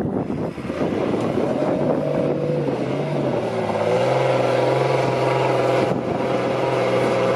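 Off-road truck engine running under throttle, its pitch rising between about two and four seconds in and then held high and steady.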